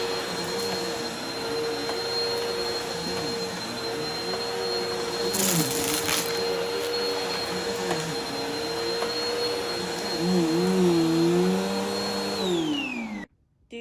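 Upright vacuum cleaner running over rugs strewn with test debris, its motor whine steady while lower tones waver as it works. A brief rush of noise comes about five and a half seconds in. Near the end the vacuum is switched off and its pitch falls as the motor winds down, before the sound cuts off suddenly.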